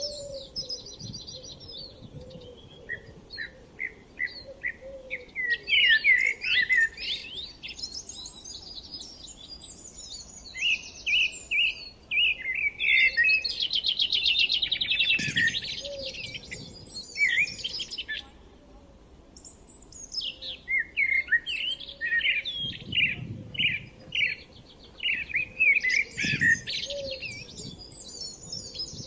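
Forest songbirds singing and chirping, several birds overlapping in phrases of quick repeated notes and trills, with a couple of brief lulls.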